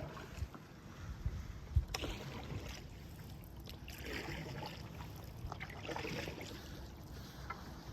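Paddle strokes splashing and swishing through the water, roughly one every two seconds, with scattered low thumps on the microphone.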